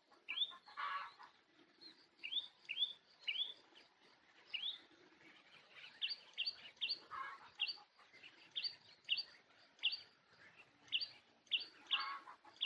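Small bird chirping over and over, short upswept notes just under two a second, with fainter high peeps in the background.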